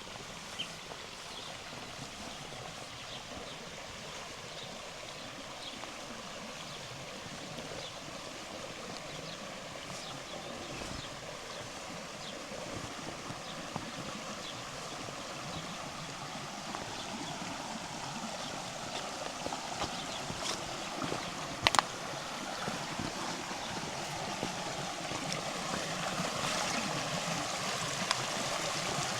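River water running steadily, growing louder toward the end, with one sharp click about two-thirds of the way through.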